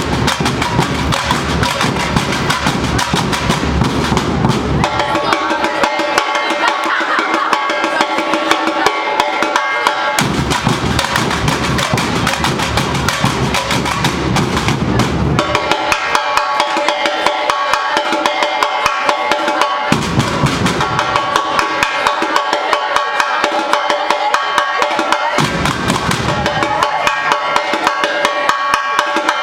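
A Brazilian university bateria, a massed percussion band, drumming a fast, driving rhythm on snares and bass drums. The deep bass drums drop out and come back in several times while the rapid snare pattern keeps going.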